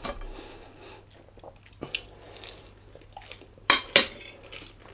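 Cutlery clinking against a dish while eating: a light clink about two seconds in, then two sharp clinks in quick succession near the end, the loudest sounds here.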